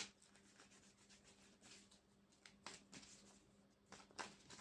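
Near silence: room tone with a faint steady hum and a few soft taps and rustles.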